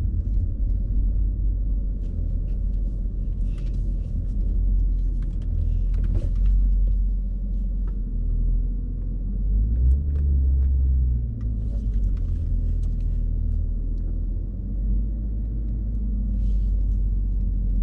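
Low, steady rumble of a car driving slowly, heard from inside the cabin, swelling briefly about halfway through, with a few faint light clicks.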